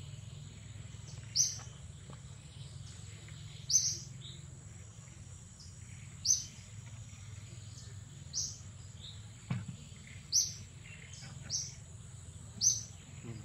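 A bird giving short, high chirps, one every second or two, over a steady high-pitched insect drone.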